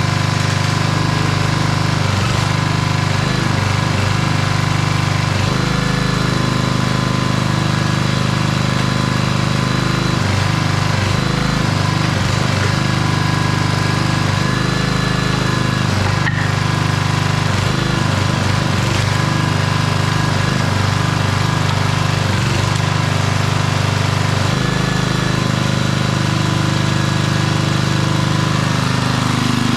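Old 5 hp Briggs & Stratton single-cylinder engine running steadily on a homemade hydraulic wood splitter, its low note shifting several times as the splitter works.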